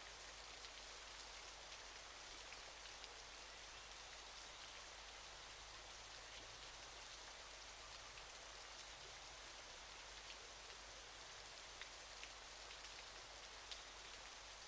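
Waterfall: a faint, steady rush of falling water with scattered small splashes and drips.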